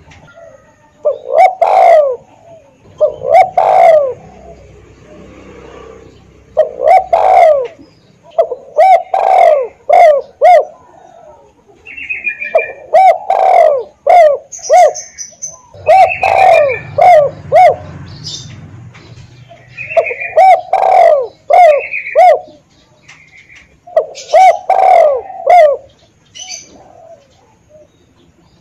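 Spotted dove (tekukur) cooing over and over in short phrases of two to four notes, a couple of seconds apart. Fainter, higher bird chirps come between some of the phrases.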